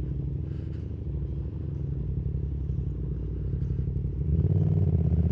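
Yamaha MT-07's 689 cc parallel-twin engine, not yet warmed up, running at idle; about four seconds in the throttle opens and the engine gets louder and stays up.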